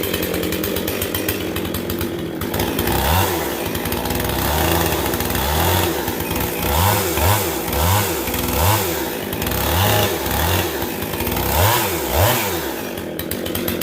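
Two-stroke chainsaw with a freshly hand-filed chain, idling and then revved in a series of about ten short throttle bursts. The chain is being run lightly into soft maple bark to knock the burrs off the newly sharpened cutters.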